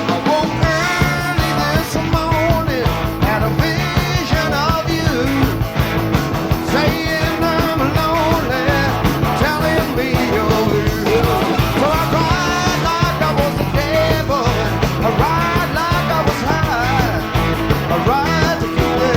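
Live rock band (electric guitars, bass guitar and drums) playing an instrumental break over a steady beat, with a bending lead line.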